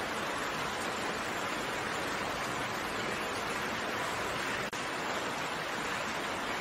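Steady rain falling, a continuous even hiss of raindrops with a momentary dip in level about two-thirds of the way in.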